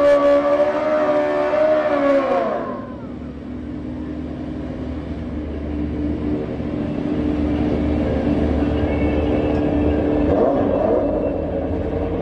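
Drag motorcycle's engine held at high revs through a burnout, its pitch falling away about two and a half seconds in. Then a muscle car's engine idles with a low, steady note as the car creeps up to the start line.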